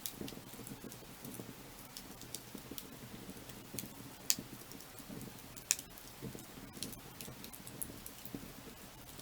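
Firewood burning, crackling with irregular pops over a low, soft rumble of the flames; two sharper pops come near the middle.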